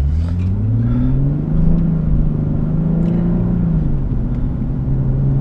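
Nissan 370Z Nismo's V6 heard from inside the cabin, accelerating: the engine note rises for about two seconds, holds, then drops a little about four seconds in and runs on steady.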